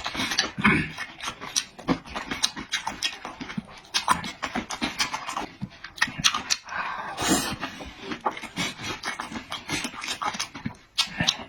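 Close-up eating sounds: chewing and lip-smacking in a dense, irregular run of short smacks and clicks.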